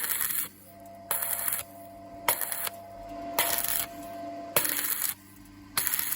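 Electric welding arc struck in short, regular bursts of crackling hiss, each about half a second long and starting with a sharp crack, six in a row about a second apart. This is stitch welding on thin square tube, with a steady hum from the welding machine underneath.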